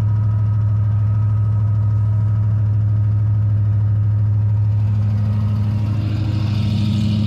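Ford OBS F-150 engine idling steadily right after a cold start in sub-zero cold. The sound grows a little fuller and brighter about five seconds in.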